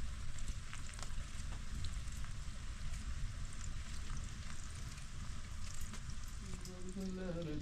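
Steady rain falling: an even hiss with scattered ticks of drops, over a low rumble.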